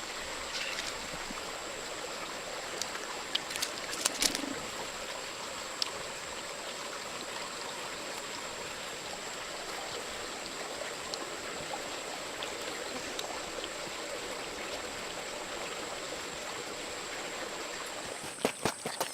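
Water running steadily, like a small stream, with a thin steady high tone over it. A few light clicks or taps come about three to four seconds in, and a quick run of them right at the end.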